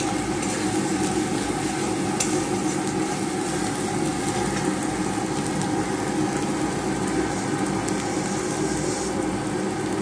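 Spiced onion-tomato masala sizzling in mustard oil in a karai while a metal spatula stirs through it, with a sharp scrape of the spatula against the pan about two seconds in.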